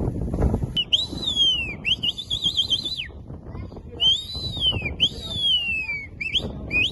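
Dolphin whistles: a series of clear, high whistles that rise and fall in arcs, one wavering rapidly up and down, with a few short upswept chirps near the end, over a low rumble of water noise.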